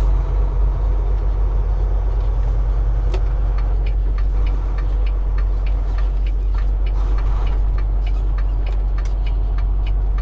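Semi truck driving on the road, heard from inside the cab: a steady low engine and road drone with frequent light ticks and rattles.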